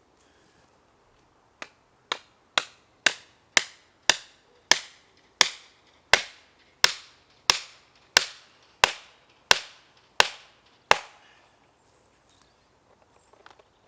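A run of about sixteen hard blows from a hand tool striking wood, evenly spaced at roughly two a second and slowing slightly toward the end, each with a short ringing decay. They start about a second and a half in and stop a few seconds before the end.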